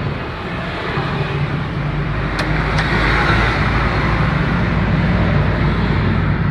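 An engine running steadily, a low hum under a rushing noise that swells a little over the first few seconds.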